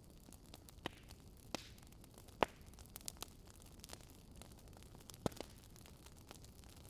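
Wood fire in a fire pit crackling: scattered sharp pops and snaps over a steady low hiss, the loudest pop about two and a half seconds in.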